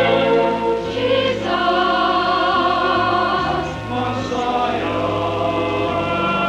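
Church chancel choir singing, holding long sustained chords that change every second or so.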